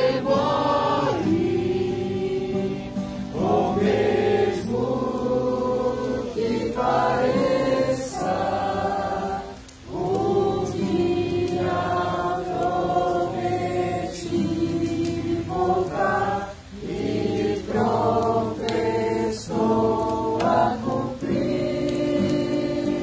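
Choir singing, sustained voices in phrases of a second or two over a steady low accompaniment.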